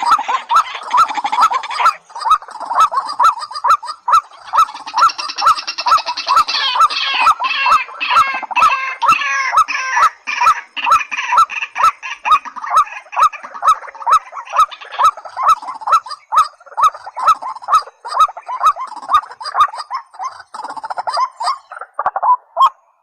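Rails (white-breasted waterhen and watercock) calling: a steady series of short, loud notes about two a second, with a faster run of higher notes from about five to ten seconds in. The calls stop abruptly just before the end.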